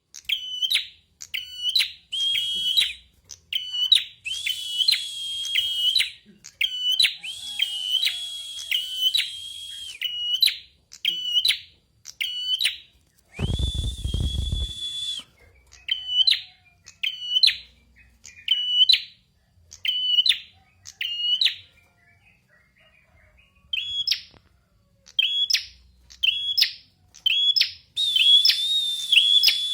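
A songbird singing clear, whistled notes, each with a quick upward flick, repeated about once or twice a second, with stretches run together into a continuous warble. There is a short pause about three quarters of the way through. Around the middle a low rumble sounds under one long held note.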